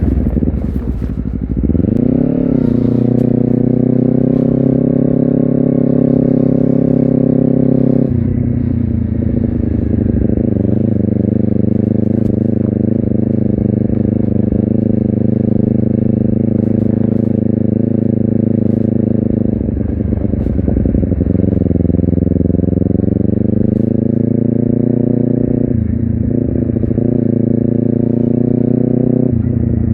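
Honda CBR250RR's parallel-twin engine and exhaust under way, revving up sharply about two seconds in, then pulling steadily, with brief breaks in the pitch a quarter of the way in and again near the end as gears change.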